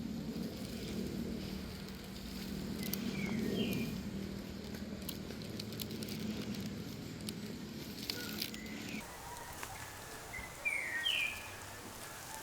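Birds chirping in short upward-sweeping calls, loudest about eleven seconds in, over a low steady hum that cuts off suddenly about nine seconds in.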